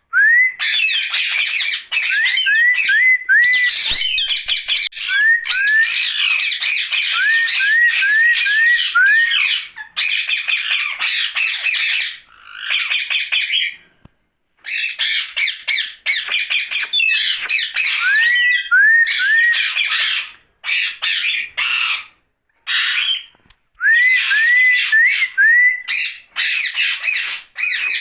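Indian ringneck parakeet giving loud, harsh squawks in long runs, mixed with many short rising whistled notes, with a couple of brief pauses.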